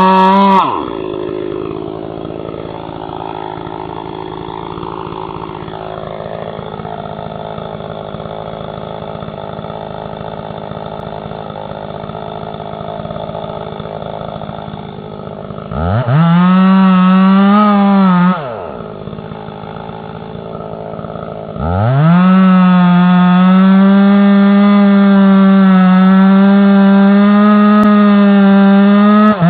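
Chainsaw engine dropping off from full throttle in the first second and running quieter for a while. It revs up for about two seconds a little past halfway, falls back, then revs up again near the last third and holds steady at full speed.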